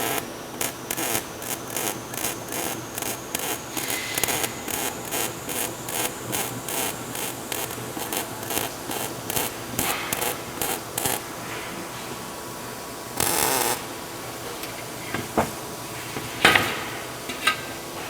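Hand tool working metal in rapid, regular strokes, about three a second, for the first eleven seconds. Then comes a short rasping burst, and a few separate clicks and knocks near the end.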